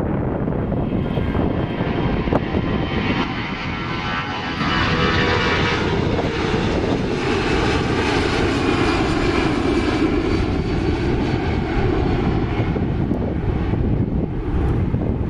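Four-engined Airbus A340 jet airliner taking off, its engines running at takeoff power. The jet noise gets louder about four seconds in and holds steady, with a thin whine over it for a few seconds.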